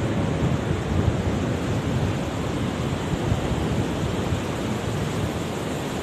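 Steady rush of sea surf on the shore, with wind on the microphone.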